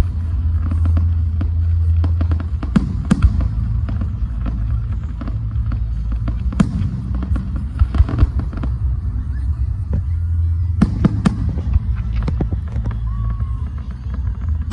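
Fireworks going off: an irregular run of sharp bangs and crackles over a constant low rumble, with louder reports about three seconds in, about six and a half seconds in, and a close pair about eleven seconds in.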